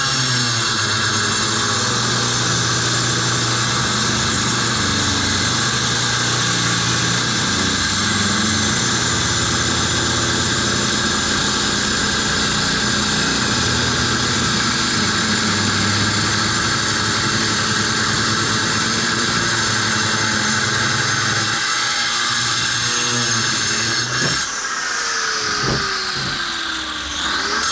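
Small electric saw with a diamond blade cutting a clay paver: a steady high whine with gritty cutting noise. About 24 seconds in it is switched off and winds down in a falling whine, then whines back up near the end.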